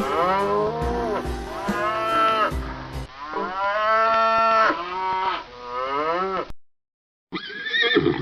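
Cattle mooing: about four drawn-out calls that rise and fall in pitch, some overlapping. They cut off abruptly at about six and a half seconds, and after a short silence a different animal call begins.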